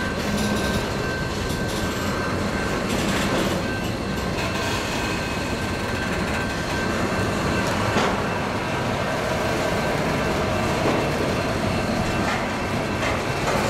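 Loaded double-stack intermodal well cars rolling slowly on yard track, their steel wheels making a steady rumble with a thin, steady high squeal. A sharp knock comes about eight seconds in.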